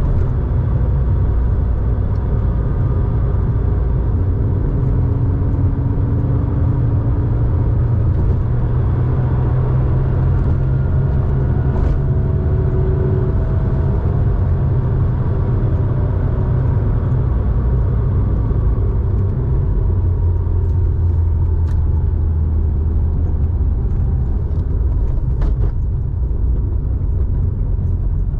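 1987 Porsche 911's air-cooled flat-six, enlarged to 3.4 litres, running under way through a Scart two-in-one-out muffler: a steady, deep exhaust drone, its pitch shifting slightly now and then.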